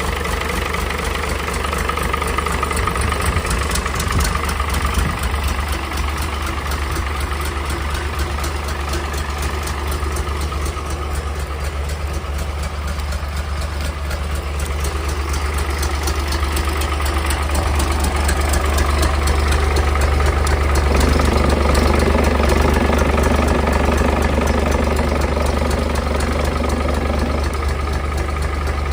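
Isuzu UM6SD1TCG 485 hp six-cylinder marine diesel engine running steadily with a low drone, growing a little louder and fuller about two-thirds of the way in.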